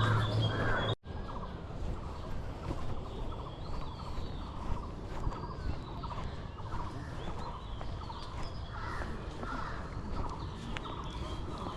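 Several birds calling at once, with many short overlapping chirps and whistled notes. A low steady hum cuts off abruptly with a brief gap about a second in.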